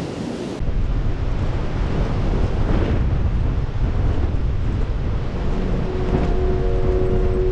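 Strong wind blowing over the microphone, a dense low buffeting rumble. A few steady held tones come in near the end.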